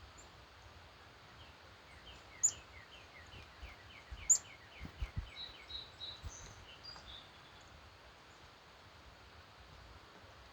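Wild birds singing at dawn. One bird gives a fast run of a dozen or so repeated chirping notes over about four seconds, and a few short high notes and two sharp high chips come from other birds. There are a few low thumps in the middle, against a steady outdoor hiss.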